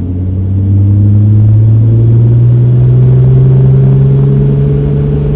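Nissan Skyline R32 GT-R's RB26 twin-turbo straight-six pulling under acceleration, its engine note rising slowly and steadily, heard from inside the cabin.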